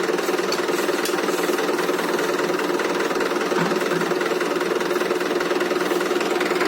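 Tractor diesel engine running steadily at a constant speed, driving the bore well lifting rig.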